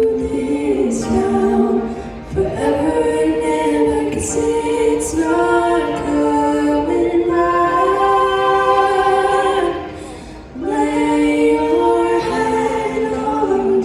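A girl's voice singing a slow ballad, holding long, drawn-out notes that step up and down in pitch. The phrases break briefly about two seconds in and again about ten and a half seconds in.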